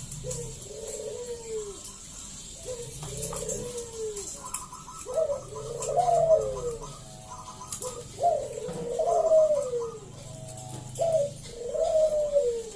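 Zebra doves (perkutut) cooing, one arched phrase after another, with the phrases overlapping and growing louder from about halfway through. A fast pulsed trill joins from about halfway.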